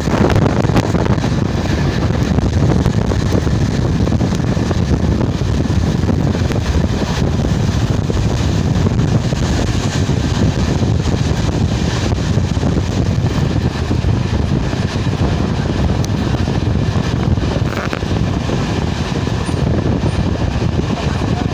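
Moving train heard from inside the carriage: a loud, steady rumble.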